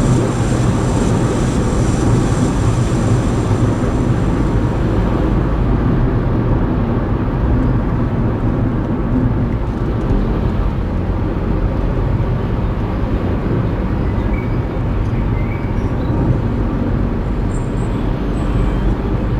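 Steady cabin noise of a 2015 Hyundai Grand i10 with a 1.2-litre petrol engine cruising at expressway speed: a continuous low rumble of tyres, road and engine, heard through a dashcam's microphone. A faint high whine fades out about five seconds in.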